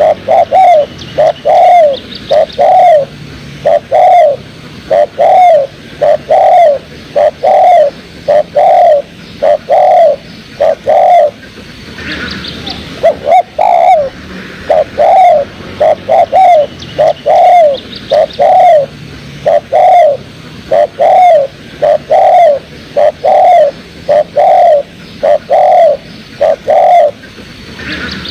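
Spotted dove (tekukur) cooing: loud, mellow arched coos repeated in steady phrases, with a brief pause about twelve seconds in.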